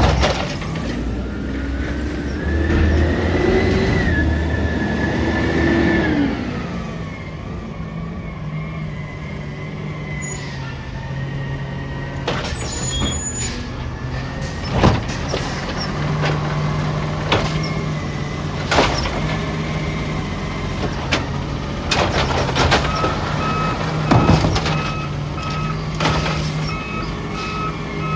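Peterbilt 320 garbage truck engine revving up for a few seconds, then settling back to a steady run, with several sharp clanks and knocks. A reverse alarm starts beeping about five seconds before the end.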